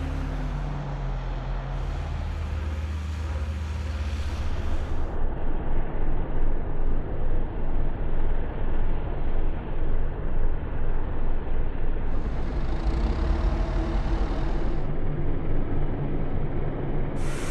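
Low, heavy mechanical rumble, pulsing unevenly in loudness from about six seconds in, with abrupt changes in tone at several points.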